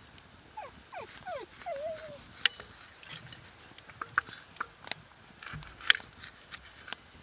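A small dog whining several times in short falling whimpers, ending in one longer wavering whine, followed by scattered sharp clicks and knocks.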